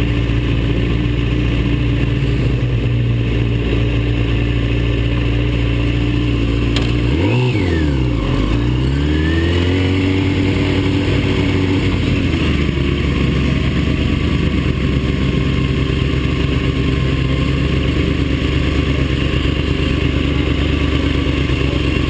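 Engine of a track-day vehicle recorded onboard at speed, with wind rushing past the camera. Its pitch is steady, then about seven seconds in the revs drop sharply and climb back. About twelve and a half seconds in the pitch steps down to a lower steady note, as at a gear change.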